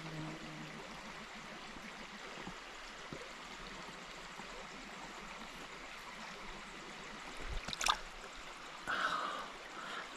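Creek water running steadily, with a sharp click a little before 8 seconds in and a short rush of disturbed water about 9 seconds in.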